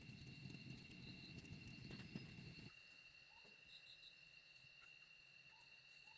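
Faint insects trilling, a steady high-pitched tone with small chirps over it, under a low rumble that stops about two and a half seconds in.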